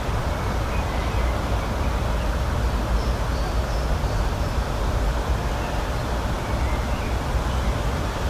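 Steady outdoor rushing noise with a deep rumble underneath, and a few faint bird chirps: about a second in, between three and four seconds, and near seven seconds.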